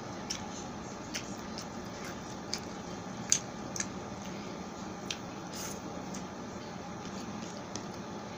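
Close-miked eating sounds of pork sisig and rice eaten by hand: scattered short, wet smacks and clicks of chewing, the sharpest a little past three seconds in, over a steady background hiss.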